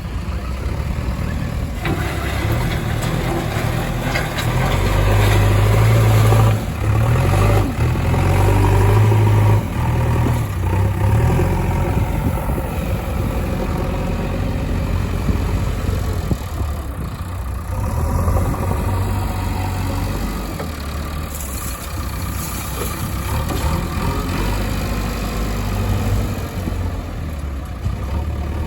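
Heavy diesel engine running steadily, revving up harder for several seconds from about four seconds in, then settling back.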